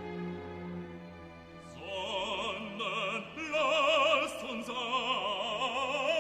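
Operatic singing with heavy vibrato over orchestral accompaniment; the voice comes in about two seconds in, after held instrumental notes.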